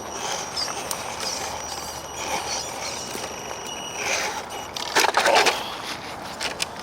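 Electric motor of an RC scale crawler truck whining steadily while it crawls over rough ground, the whine fading after about four seconds. About five seconds in comes a louder burst of clattering noise.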